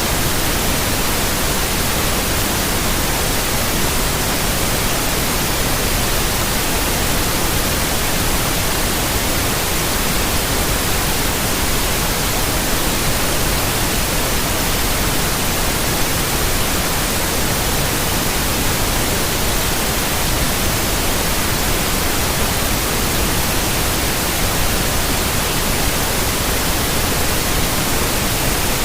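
Steady white noise: an even hiss spread across all pitches, unchanging throughout.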